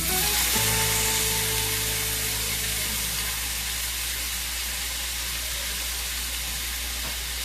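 Cooked beets sizzling in a skillet of bubbling brown sugar, butter and orange-juice glaze. The hiss jumps up sharply right at the start, as the beets go into the hot syrup, then eases off to a steady sizzle.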